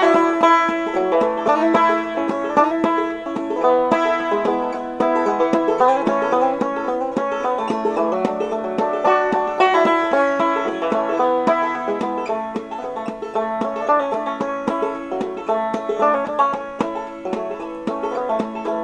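Clawhammer banjo playing an instrumental break: a steady run of quick plucked notes with a droning ring.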